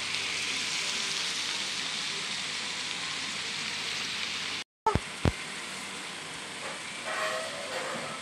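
Fried tofu cubes, onion and chilli sizzling as they are stir-fried in a metal wok: a steady hiss that cuts off abruptly about four and a half seconds in. Two sharp clicks follow, then a quieter steady hiss.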